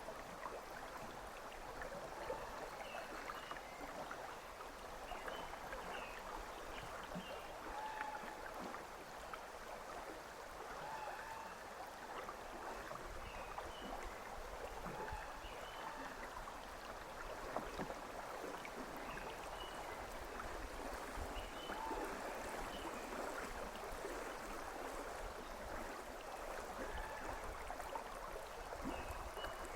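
River water running and gurgling steadily, with many small bubbling ripples.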